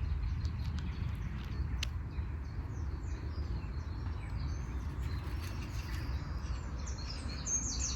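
Small birds chirping, with the chirps getting busier and louder near the end, over a steady low rumble of wind on the microphone.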